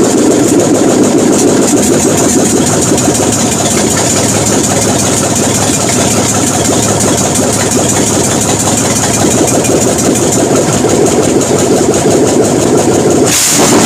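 Small-block Chevy V8 running at a loud, steady idle. A hiss comes in over it just before the end.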